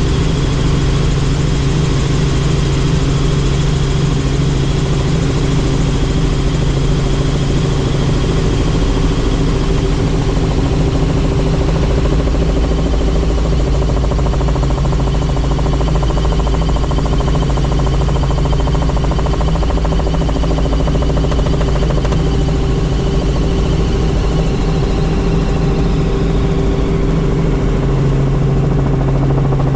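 Helicopter in flight: a steady, loud drone from the engine and rotors, with a faint high whine above it.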